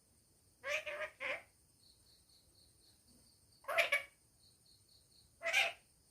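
Pet parrot vocalizing in short, pitched bursts: a quick three-part call under a second in, then single calls near the middle and shortly before the end.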